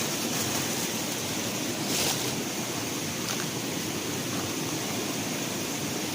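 Steady hiss of rain falling outdoors, with a steady high-pitched band above it and a brief rustle about two seconds in.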